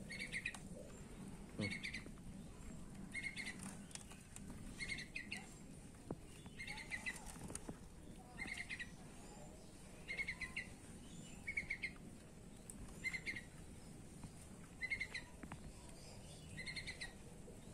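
A bird chirping: one short call repeated at a steady pace, about every second and a half to two seconds, some ten times over.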